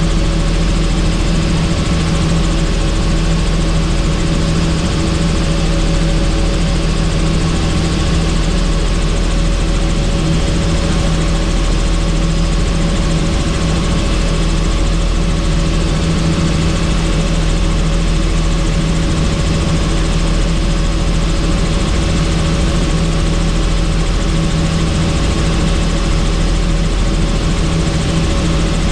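Helicopter in steady flight heard on board: an even engine and rotor noise with a constant low hum.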